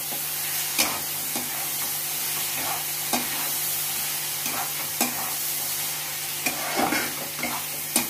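Potatoes and bitter gourd coated in poppy-seed paste frying in mustard oil in a non-stick kadai while being stirred with a spatula: a steady sizzle, with the spatula scraping and knocking against the pan every second or two.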